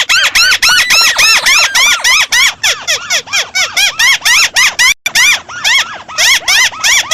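White-browed crake (Amaurornis cinerea) giving a loud, fast chattering series of calls. Each note rises and then falls in pitch, about four or five a second, with a brief break about five seconds in.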